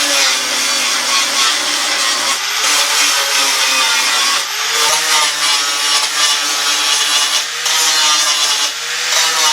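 Angle grinder grinding a welded seam flush on a steel car sill, a loud steady whir whose pitch dips and recovers several times as the disc is pressed into the metal.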